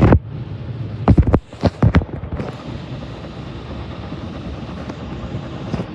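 Automatic car wash equipment heard from inside the car: several loud knocks against the body in the first two seconds, then a steady rushing noise of the wash running over the car.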